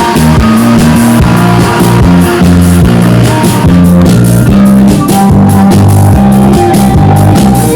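Loud live band music without vocals: guitar and keyboard notes over bass and a steady drum-kit beat.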